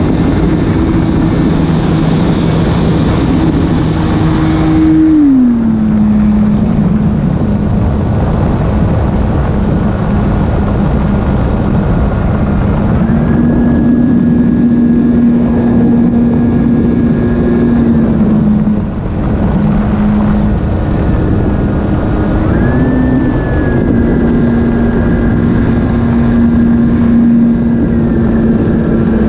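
E-flite Carbon-Z Cub SS radio-control plane's electric motor and propeller whining in flight over a steady rushing noise. The pitch drops about five seconds in, then steps up slightly midway and swells briefly again later.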